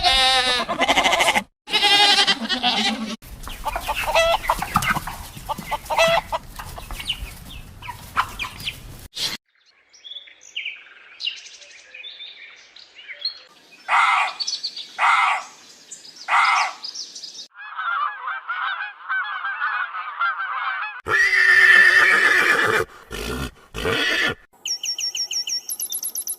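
A run of different animal calls cut one after another: farm-animal and bird calls such as honking and clucking fowl. Near the middle come four separate calls about a second apart, then a warbling stretch and a fast series of repeated calls near the end.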